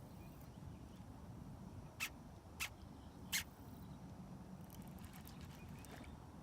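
Three short, sharp clicks or taps, about two, two and a half and three and a half seconds in, over a faint low rumble.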